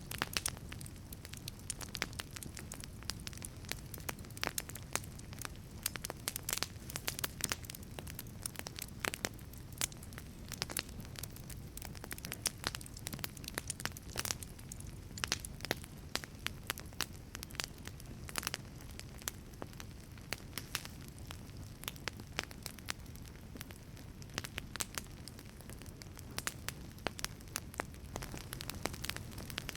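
Wood fire burning in a wood-fired pizza oven: irregular sharp crackles and pops, several a second, over a steady low rumble of the flames.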